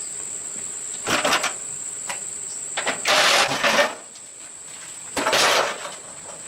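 Metal parts clattering and scraping in three short bursts, the middle one the longest, over a steady high-pitched tone.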